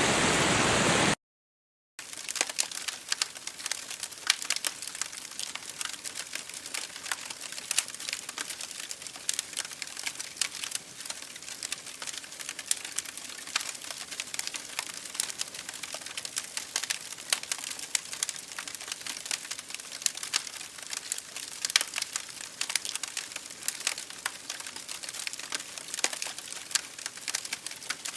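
Rushing creek water that cuts off about a second in, followed by a short silence. Then a campfire crackles, with dense irregular pops and snaps over a soft hiss.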